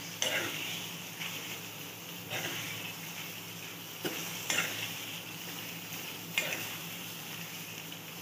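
Chicken in a thick yogurt masala frying in a kadai, sizzling steadily, while a steel spatula stirs in milk powder, scraping the pan in about six separate strokes.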